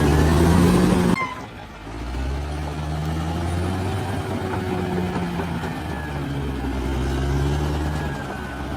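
Large bulldozer's diesel engine running under load. About a second in the sound cuts off sharply, then the engine drone comes back and holds steady with slight rises and falls in pitch.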